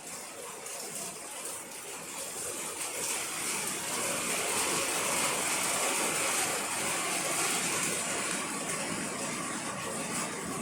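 Steady rain falling, an even hiss that swells louder through the middle and eases off near the end.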